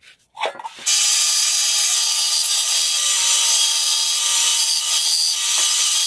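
Power tool grinding steel: a short rising whine near the start, then steady, loud grinding with a few steady whine tones, beginning about a second in.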